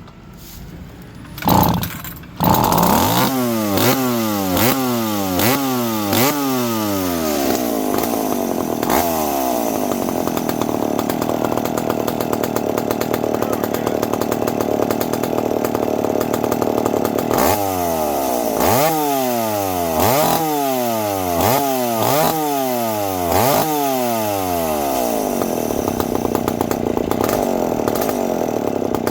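McCulloch PM 700 two-stroke chainsaw starting up about two seconds in, then running with the throttle blipped in quick repeated revs about once a second, settling into steadier running in the middle, revved again several times, and running steadily to the end.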